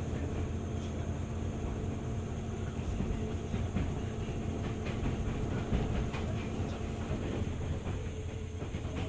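JR 205 series 600 subseries electric train running, heard from on board: a steady low rumble of wheels and running gear under a low hum, with scattered light clicks of wheels over rail joints through the middle. The hum drops away about seven seconds in.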